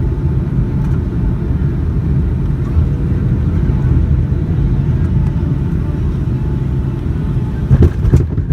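Steady, loud low rumble inside the cabin of a Boeing 757 during its landing, with two or three short knocks near the end.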